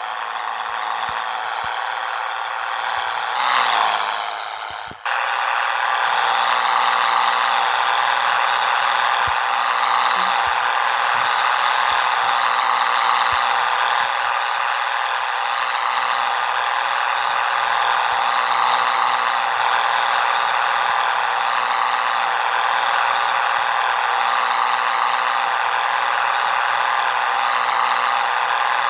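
Scania 113 truck's six-cylinder diesel running steadily under way, a dense engine drone with rattle. It swells briefly and breaks off sharply about five seconds in, then settles back to a steady run.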